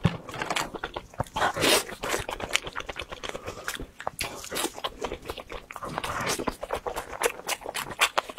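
Close-miked crunching and chewing of crispy deep-fried skewered food (zha chuan), a rapid, irregular run of sharp crunches.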